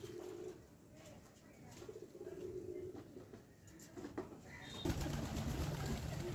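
Pigeons cooing in low, repeated coos, with louder scuffling noise over the last second and a half.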